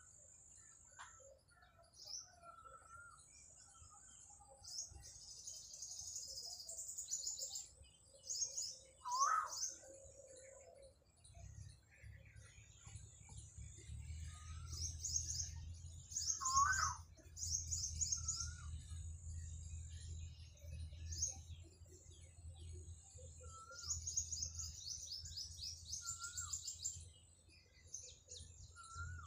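Small birds chirping in quick runs of high notes, with two louder rising calls partway through. A steady low hum sets in near the middle.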